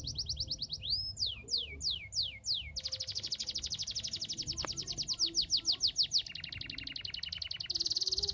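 Domestic canary singing a continuous song of rapid trills made of fast repeated notes. About a second in comes a run of five downward-swooping notes, and the song then changes into further trills of different pitch and speed.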